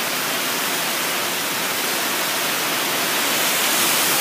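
Heavy typhoon rain falling, a steady dense hiss.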